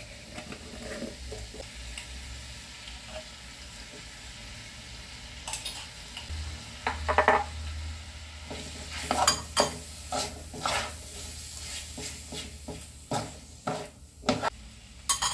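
Minced beef, potato and onion filling sizzling in a wok as it is stirred with a wooden spatula. From about halfway on, the spatula and a metal spoon knock and scrape against the pan several times.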